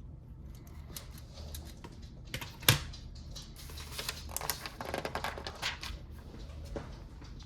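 Plastic Lego pieces clicking and rattling as they are handled. There is one sharp click a little after two and a half seconds in, then a quick run of rattling clicks in the middle.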